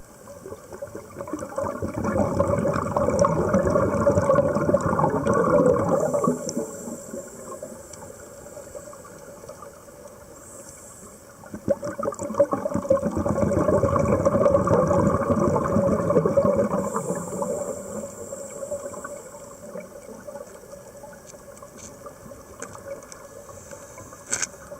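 Scuba diver breathing through a regulator underwater: two long bubbling exhalations of several seconds each, with quieter stretches between them where a thin hiss of inhalation is heard. A single click comes near the end.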